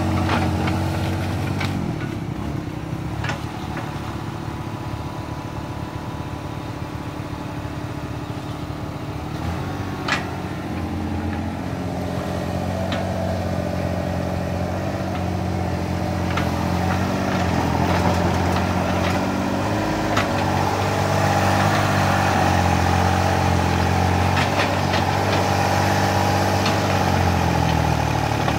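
Small hydraulic excavator's diesel engine running steadily, getting louder about halfway through as it works, with a few sharp metallic clanks.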